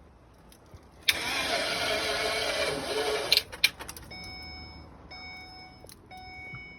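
A van's new starter motor cranking the engine for about two seconds and then stopping, followed by a few clicks; the engine does not keep running. A dashboard warning chime then beeps about once a second.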